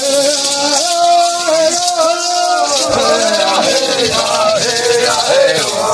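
Sung chanting with maracas shaken steadily throughout, the voice holding and bending long notes.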